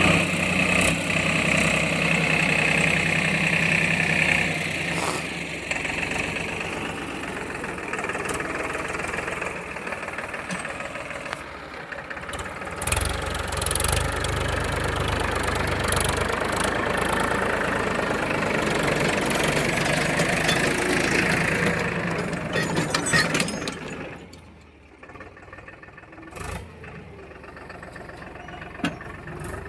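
Tractor engine running steadily, its level shifting several times and dropping clearly for the last few seconds.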